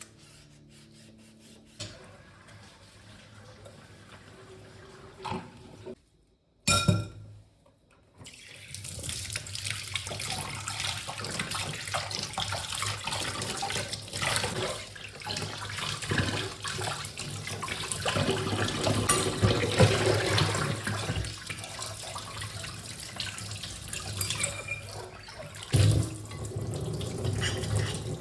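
Water running from a tap into a sink, splashing unevenly as things are washed under it. It starts about eight seconds in, after a short sharp knock; the first few seconds are quiet.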